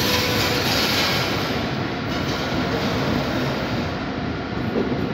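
SBB passenger coaches rolling slowly past through the station, a steady rumble of wheels on rail. A thin whine fades out about half a second in.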